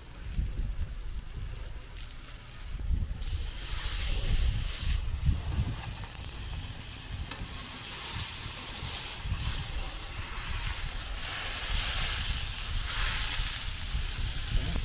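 Burger meat frying on a hot cooking surface, a sizzle that starts suddenly about three seconds in and keeps going, swelling and easing, over a low rumble.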